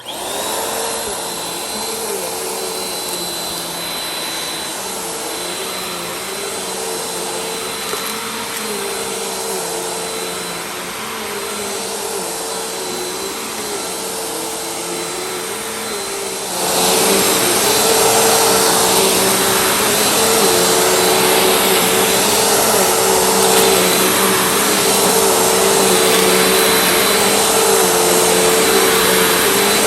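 Vacuum cleaner running steadily, a motor hum with a high whine over rushing air; about halfway through it becomes louder and rougher.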